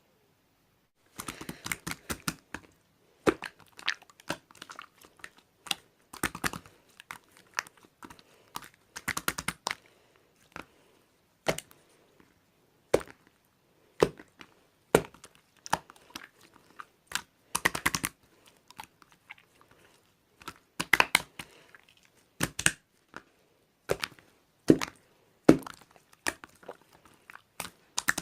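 Two-layer slime, an air-bubble layer over a marbled layer, being pressed and squished by hand, starting about a second in: irregular crackling clicks and pops from the trapped air bubbles, some single and some in quick clusters.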